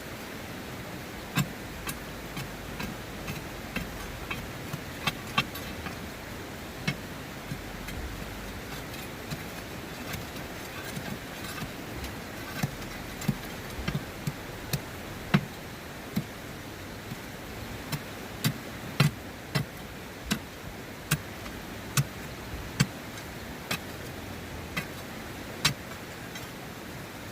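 Hand digging tool working into hard-packed gravel: irregular sharp clinks and knocks of metal on stone, roughly one a second and some much louder than others, over a steady rushing background of the river.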